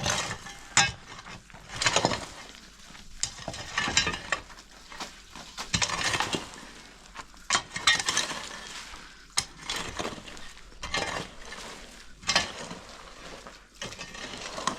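Dry branches and brush rustling, scraping and cracking in irregular bursts, about one a second, as they are pulled and broken.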